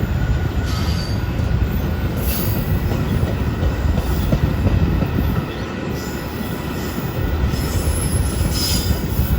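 Metra commuter train cars rolling along the rails: a steady heavy rumble of wheels on track, with brief high wheel squeals now and then, including near the end.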